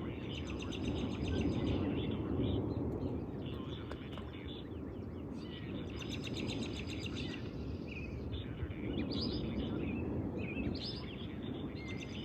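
Songbirds calling: a rapid high trill about a second in and again around six seconds, then scattered short chirps, over a steady low rushing noise.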